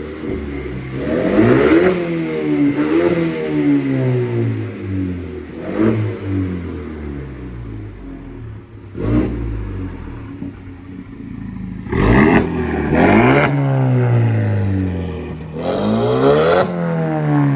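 Exhaust of a 2019 Ford Ranger's 2.3-litre turbocharged four-cylinder through an SPD stainless catted downpipe and Borla cat-back, blipped up from idle about seven times, some revs in quick pairs, each falling back toward idle. The tone is sporty and throaty.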